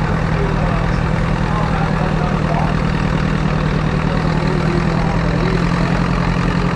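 Antique farm tractor engine idling steadily, a constant low hum with no revving.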